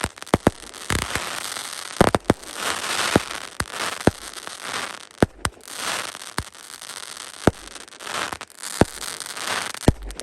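Fireworks going off: sharp bangs at irregular intervals, a second or less apart, over continuous crackling and hissing from the bursts.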